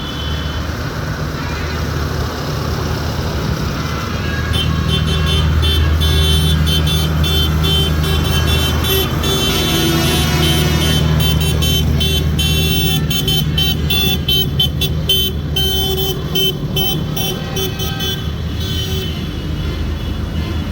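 Tractor engine running close by, its hum swelling a few seconds in as it passes. In the middle of the stretch, high toots cut rapidly on and off over it.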